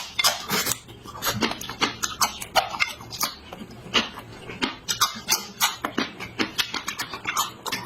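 Close-miked chewing and lip-smacking of a person eating, a quick irregular run of wet smacks and clicks.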